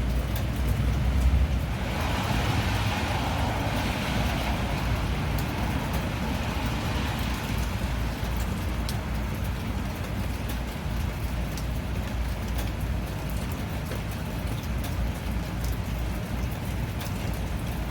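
Steady rain ambience with a low rumble underneath and scattered drop ticks. A rushing hiss swells a couple of seconds in and fades over the next few seconds: a vehicle passing on a wet road.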